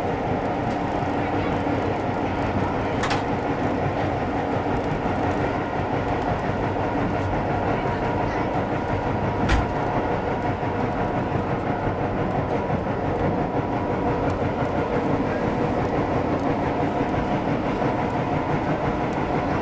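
Steady running noise of a vintage passenger train at speed, heard from inside the coach: wheels rumbling on the rails. There is a sharp click about three seconds in and a louder thump about halfway through.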